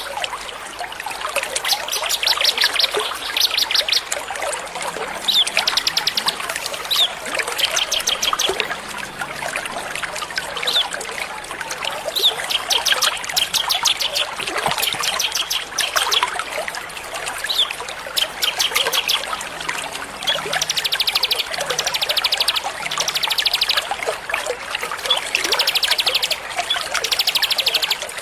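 Small songbirds singing in repeated bursts of very fast, high trills, one every second or two, over the steady trickle of running water.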